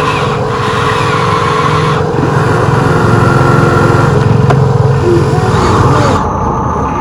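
RC excavator machinery running steadily: a mechanical whine over a low rumble, louder in the middle seconds.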